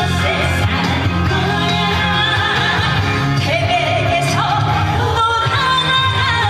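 A woman singing a trot song live over amplified backing music, with a steady bass beat under long, held sung notes.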